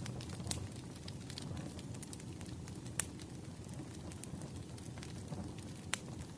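Wood fire crackling: a steady low rumble of flames with scattered sharp pops, the loudest about three seconds in.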